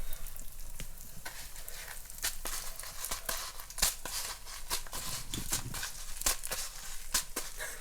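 Breaded chicken nuggets frying in hot oil: a steady sizzle full of sharp, irregular crackles and pops.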